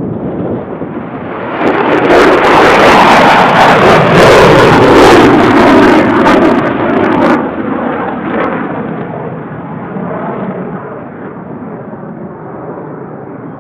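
F-35 Lightning II fighter jet's single engine roaring past at high power, likely on takeoff. The roar swells over the first two seconds, holds at its loudest with a crackling edge for about five seconds, then slowly fades away.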